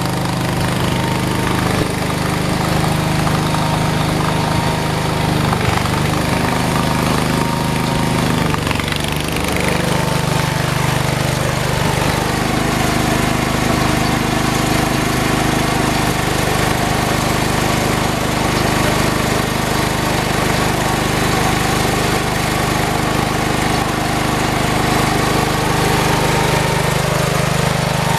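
Engine of a snow-clearing machine running steadily, its pitch shifting about a third of the way in before settling again.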